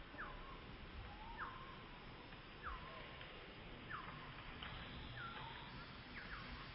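A bird calling over and over, about once a second; each call is a quick falling note that levels off, over a steady background noise.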